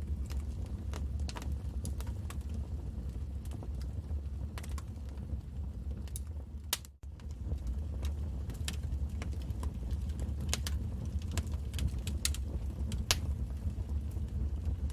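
Wood fire crackling: irregular sharp pops and snaps over a steady low rumble of the flames. The sound drops out for a split second about halfway through.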